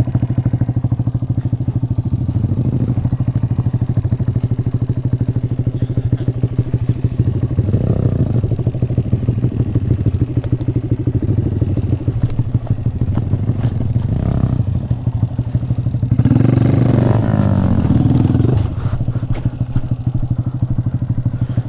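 Small 125 cc single-cylinder motorcycle engine running at low speed with an even, pulsing beat. It gives brief throttle blips about 8 and 14 seconds in, and a longer rev that rises and falls from about 16 to 18 seconds in.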